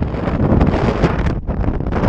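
Strong wind buffeting the microphone: a loud, gusty rumble, dipping briefly about one and a half seconds in.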